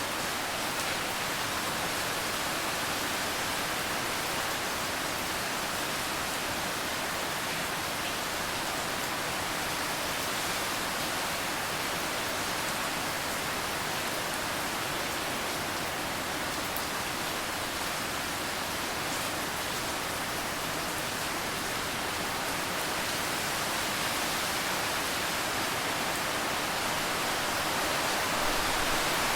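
Steady rain falling, an even hiss without separate drops or thunder.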